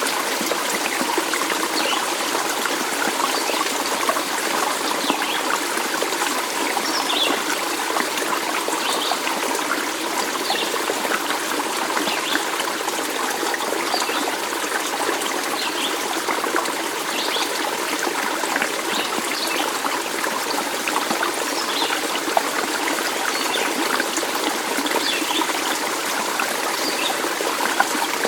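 Steady running water of a stream, trickling and splashing evenly, with faint short high-pitched sounds recurring about once a second.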